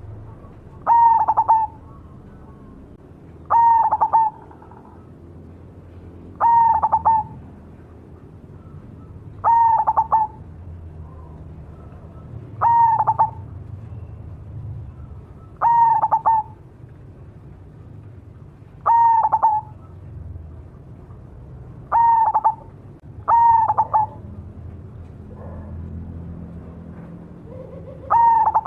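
A perkutut (zebra dove) of the black cemani variety singing its cooing call: about ten short calls, mostly about three seconds apart.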